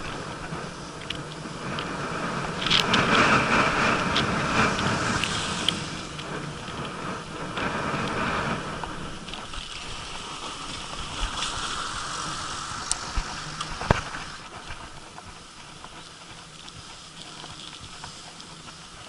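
Bicycle riding noise: tyres rolling on rough asphalt with scattered clicks and rattles from the bike, under a steady rush of wind. It is loudest a few seconds in, with one sharp click near the middle.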